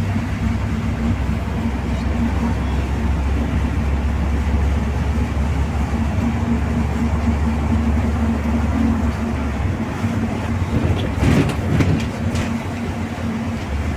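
Inside a MAZ-215 articulated city bus under way: a steady low rumble of engine and road noise with a constant drone. A few knocks or rattles come near the end.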